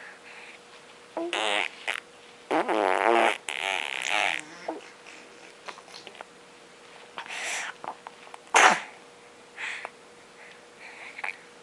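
A series of farts: several short raspy bursts of a second or less, some with a wavering buzz, the loudest and sharpest about two-thirds of the way through.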